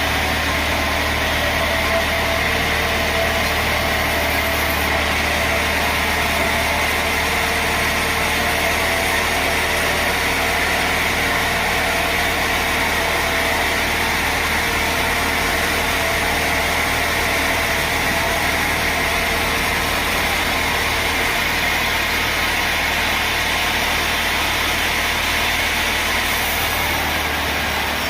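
Sawmill machinery running steadily: a constant machine hum with a strong low drone that holds level throughout.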